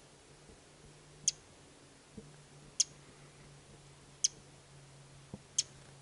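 Small bird giving sharp, high chip calls close by, four evenly spaced about one and a half seconds apart.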